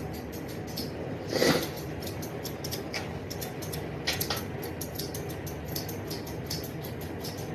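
A puppy gives two short whimpers during a haircut, the first and louder about a second and a half in, the second about four seconds in, over a steady low hum and rapid light clicking.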